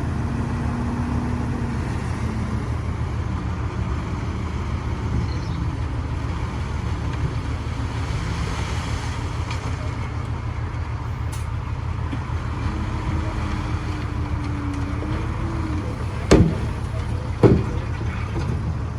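Heavy diesel earthmoving machinery running with a steady low rumble. Two sharp metallic bangs come about a second apart near the end.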